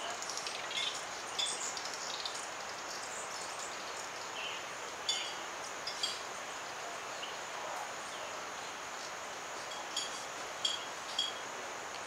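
Short, high bird chirps at scattered moments over a steady background hiss. The loudest come about five and six seconds in, with a few more near the end.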